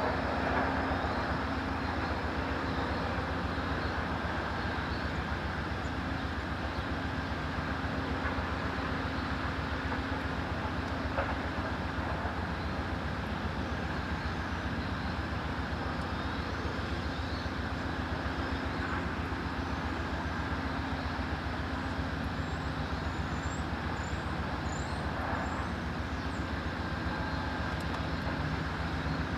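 EMD SW9 switcher locomotive's 12-cylinder 567 diesel engine running at a steady, unchanging speed.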